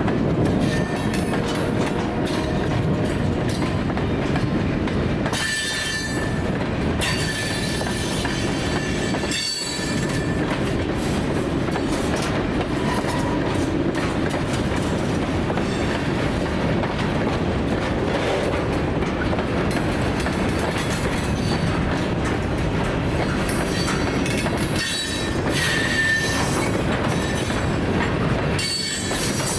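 Freight train cars rolling past, with a regular clicking of wheels over rail joints and an intermittent high squeal from the wheels.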